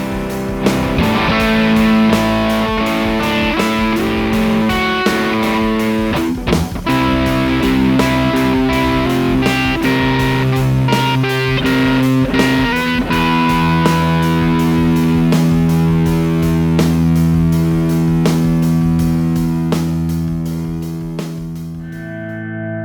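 2001 Fender Custom Shop Nocaster electric guitar played through an amplifier with light overdrive: picked chords and single notes, with the last chord left ringing out and fading near the end.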